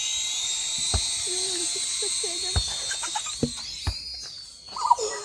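Small quadcopter's electric motors spun up for a launch, a high-pitched whine that holds steady, then wavers and fades about four seconds in. A few sharp knocks sound during it.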